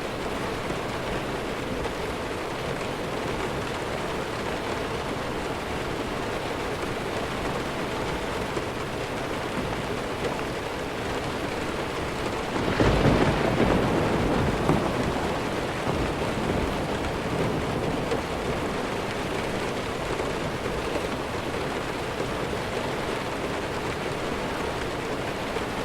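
Steady heavy rainfall, with a clap of thunder about halfway through that rumbles for a few seconds and fades back into the rain.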